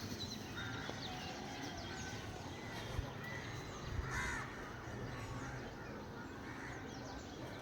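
Birds calling in the open: many small chirps, with harsher calls near the start and about four seconds in. Two short soft knocks come around three and four seconds in.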